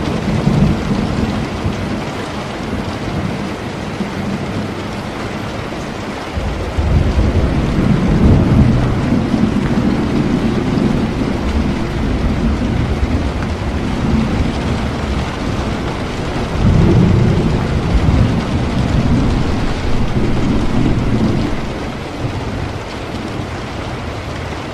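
Steady rain with rolling thunder: a long low rumble builds about seven seconds in, and another about seventeen seconds in.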